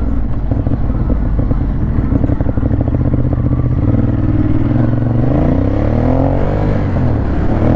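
Ducati Monster 821's 821 cc L-twin engine running at low revs with a pulsing exhaust note. In the second half its revs rise and fall a couple of times.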